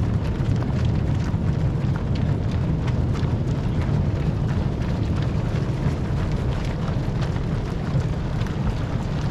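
Mass of marathon runners passing on the road, their shoe strikes making many small, irregular taps over a steady low rumble.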